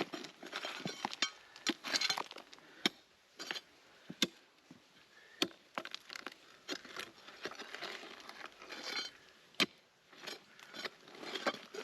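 Hand tools knocking, clinking and scraping on stone and loose rubble while digging, in an irregular string of sharp knocks, a few with a brief ringing edge.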